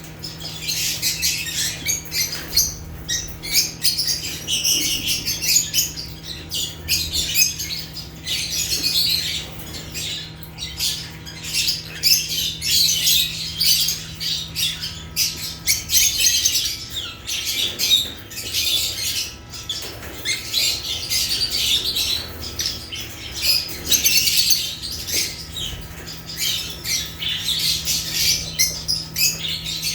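A group of lovebirds (Agapornis) chattering without pause, many overlapping shrill chirps and squawks. A faint steady low hum runs underneath, dropping out about halfway and coming back about four-fifths of the way through.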